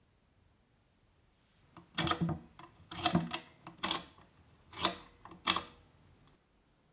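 A series of sharp clicks and knocks, about eight of them, spread from about two to six seconds in, with the loudest near two, three, four, five and five and a half seconds.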